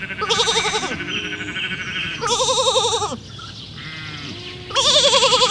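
Sheep bleating: three wavering bleats, about two seconds apart.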